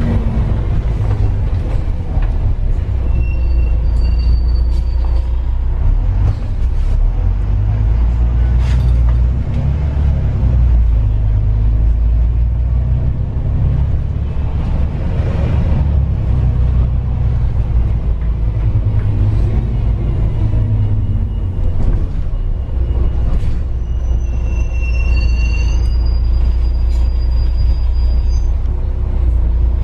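A moving vehicle running with a steady, heavy low rumble, and brief high-pitched squeals a few seconds in and again near the end.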